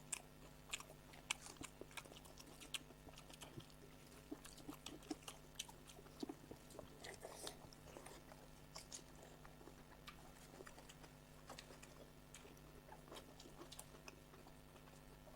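Faint eating sounds: many small irregular mouth clicks and soft chewing of soaked rice and fried sides, over a low steady hum.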